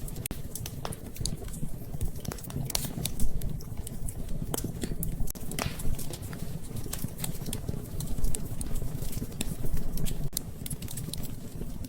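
Wood fire in a fireplace crackling and popping in irregular sharp snaps over a steady low rumble of the flames, with one louder pop about three seconds in.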